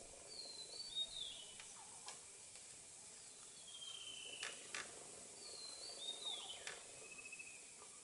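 Faint high whistled bird calls: a phrase of short whistles ending in a falling glide about half a second in and again near six seconds, with a long falling whistle between them. A few sharp clicks are mixed in.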